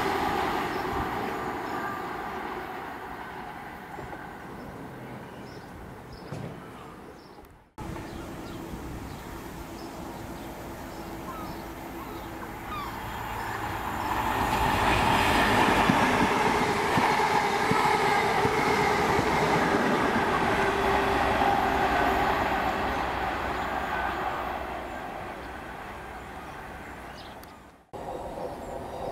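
Diesel passenger trains passing on the line: a train fading away, then, after an abrupt cut, another approaching. Its engine note and wheel rumble grow to a peak in the middle, then fade as it goes by.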